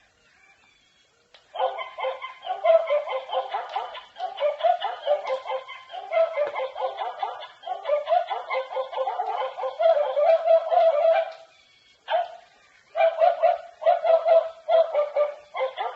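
Interactive Jack Russell toy dog yapping and barking in rapid strings of short calls, starting about a second and a half in. It breaks off briefly near the end, then starts again in shorter bursts.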